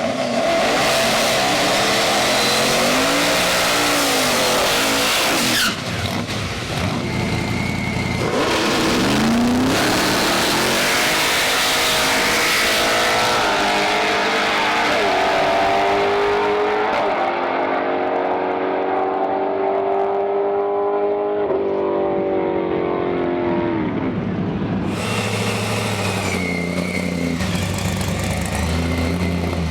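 Procharged 540-cubic-inch big-block V8 drag car at full throttle, its engine note climbing in pitch in steps as it shifts up through the gears, with tire squeal. The sound changes abruptly a few times.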